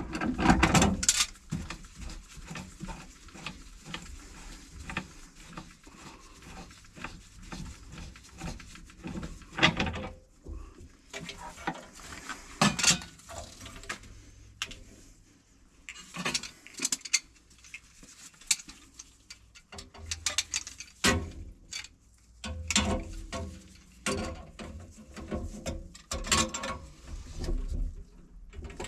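Irregular knocks, clicks and clatter of hard objects being handled, with a run of quick, fairly even ticks in the first few seconds and several louder single knocks.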